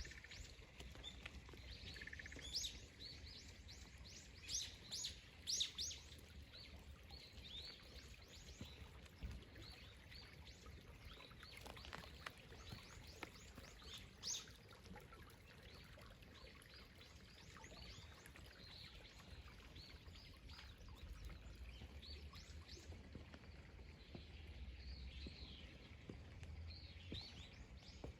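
Small birds chirping: many short, high, falling calls, loudest in a cluster a few seconds in and picking up again near the end, over a faint low outdoor rumble.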